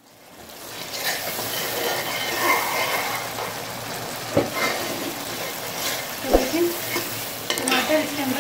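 Onion and tomato masala sizzling in hot oil in a steel pot while a metal spoon stirs it, with a few sharp knocks of the spoon against the pot. The sizzle fades in at the start.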